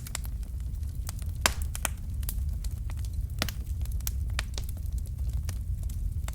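Fireplace fire crackling: irregular sharp pops and snaps over a low, steady rumble of the flames, with one louder pop about a second and a half in.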